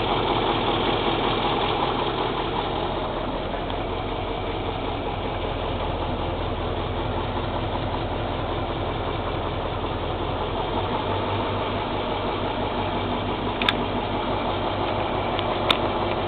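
YaMZ-7511 V8 turbodiesel of a MAZ-54328 truck idling steadily. Its low note shifts slightly about eleven seconds in, and a few sharp clicks come near the end.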